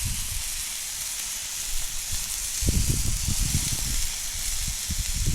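Sirloin steak sizzling steadily over a campfire, with low uneven rumbling joining in about halfway through.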